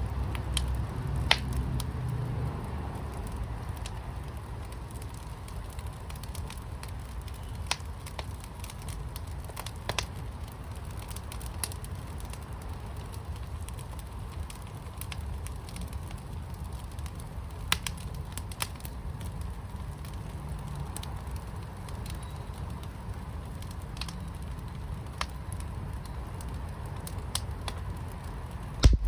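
Wood fire burning in a firepit: a steady low rumble with scattered sharp crackles and pops, and one much louder crack near the end.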